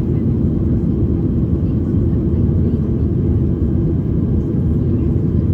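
Steady low rumble of a jet airliner heard from inside the passenger cabin: engine and airflow noise, unchanging throughout.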